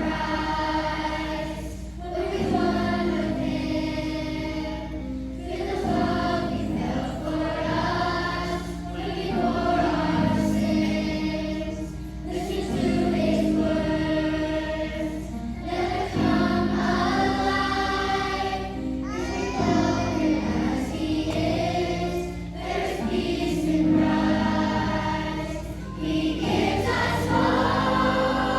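A choir of young voices singing a Christian song in sustained phrases of about two seconds each.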